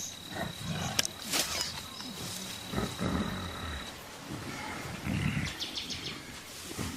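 Mountain gorillas giving a few short, low grunts amid rustling vegetation, with a thin steady high whine that stops about four seconds in.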